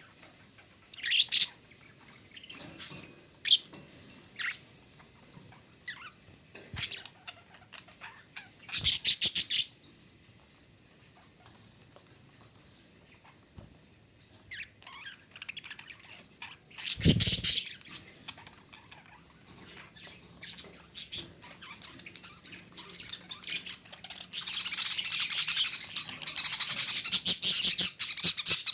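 Female budgerigar calling: scattered chirps and short bursts of chatter separated by pauses, then continuous fast chattering for the last few seconds.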